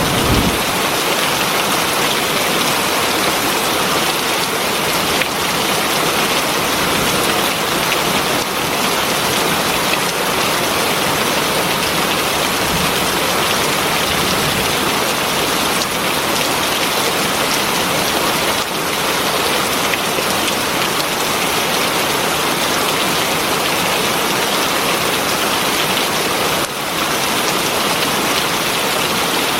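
Heavy rain falling steadily: a dense, even hiss of drops with no letup. In the first second the tail of a low rumble fades out.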